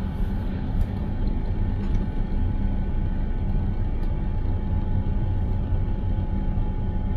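A car driving, with a steady low rumble of engine and road noise and a thin steady hum above it.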